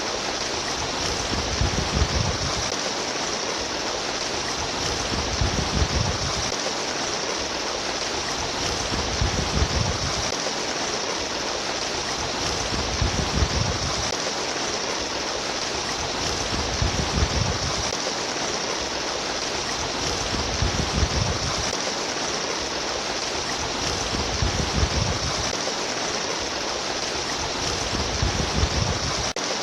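Steady trickling, splashing running water, with a low rumbling surge that comes back about every four seconds.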